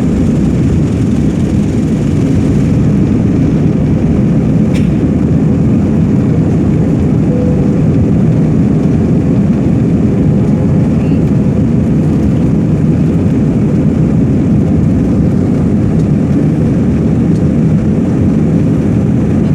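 Airliner's jet engines and airflow heard inside the passenger cabin as a loud, steady low noise during takeoff and climb, with a faint click about five seconds in.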